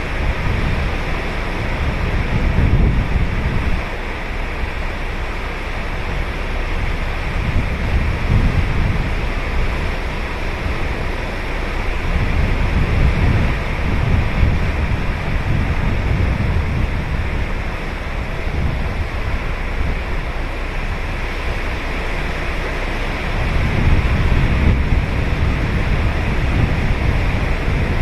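Ocean surf breaking and washing up the beach: a continuous rush of waves that swells louder every few seconds, with the biggest surge near the end.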